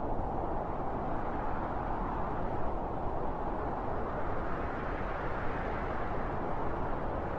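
Strong wind blowing, a steady rushing noise that swells a little past the middle.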